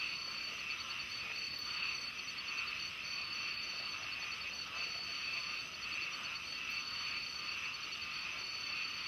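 Loud chorus of small pond frogs (khiat), each no bigger than a little finger, calling steadily all together, with a high pulsing trill over a continuous buzzing din.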